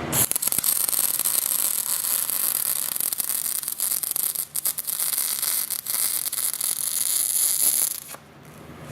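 MIG welding arc crackling steadily as a bead is laid, with a couple of brief breaks, then cutting off suddenly about eight seconds in.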